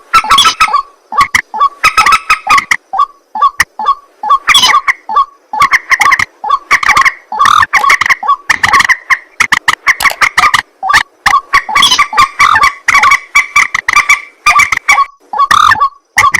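White-breasted waterhen (ruak-ruak) calling loudly: a fast, unbroken series of short, harsh repeated notes, several a second.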